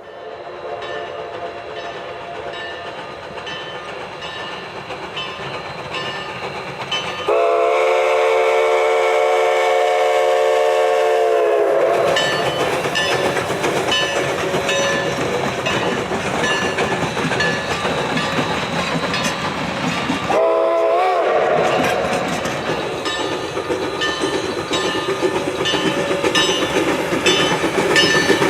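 Narrow-gauge steam train approaching and running past, growing louder, with its steam whistle blowing a long blast about seven seconds in and a short blast about twenty seconds in, and another starting at the very end, over the steady rumble and clatter of the train on the rails.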